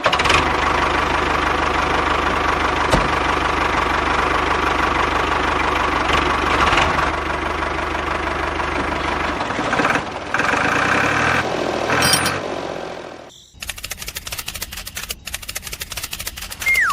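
A tractor engine running steadily for about 13 seconds, its low rumble dropping away near the end, then cut off abruptly. After it come rapid, even clicks and, near the end, a falling whistle.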